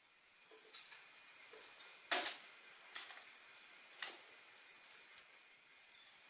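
Orange-headed thrush giving its thin, high 'ngecis' call: a whistle sliding down in pitch for about a second, once near the end, with the tail of another fading in the first instant. Between the calls runs a steady high cricket-like trill, broken by a few short clicks.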